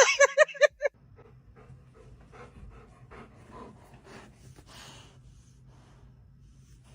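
A person's voice, laughter-like, is cut off about a second in. Then a dog pants softly and steadily, about two to three breaths a second.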